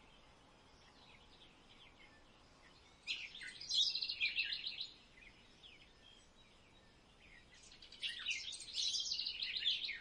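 Small birds chirping: two bursts of rapid, high twittering trills, one about three seconds in and another about eight seconds in, with a faint background between.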